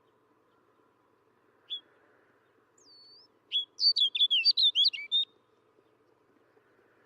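Snow bunting singing: a single short chirp, a thin whistled note, then a quick warbling phrase of rapid high notes lasting under two seconds, over a faint steady background hum.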